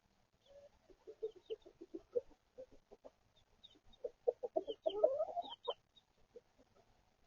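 Chickens clucking in a rapid run of short calls that grows busier, with one rising squawk about five seconds in. Faint high peeping, typical of young chicks, sounds over the clucks.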